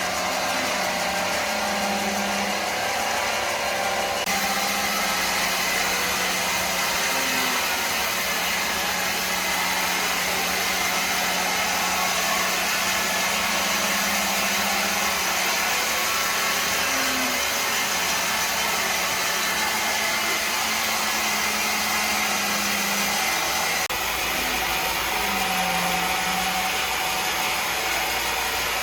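Steady whirring noise of woodworking machinery running, even in level with no strokes or pauses. Its tone changes abruptly about 4 seconds in and again about 24 seconds in.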